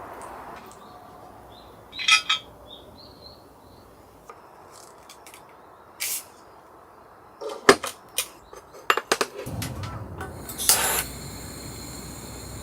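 Scattered clinks, clicks and rattles of camp cookware and utensils being handled, with a quick run of sharp clicks just before the middle and a louder clatter near the end.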